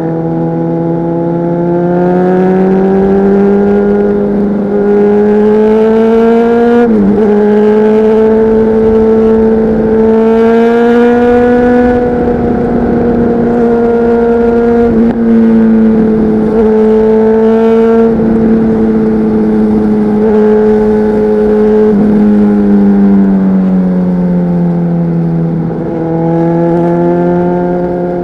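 Honda CBR600RR inline-four with a LeoVince aftermarket exhaust, loud under way: the note climbs gradually, holds high with a few brief breaks, dips a little past two thirds of the way through and then rises again.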